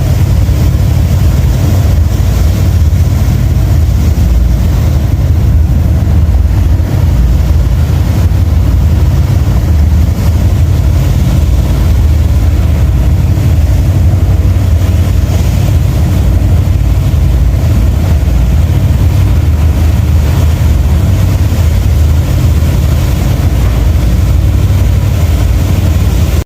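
A boat's engines running: a steady, loud low rumble.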